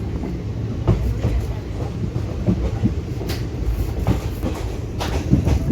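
Indian Railways train running on the track: a steady low rumble of wheels on rail, with irregular sharp knocks and clatters as the wheels cross rail joints.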